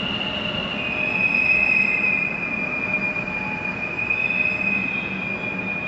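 Kolkata Metro train running, with a steady high-pitched wheel squeal over the rumble of the train; the squeal's pitch drops slightly about a second in.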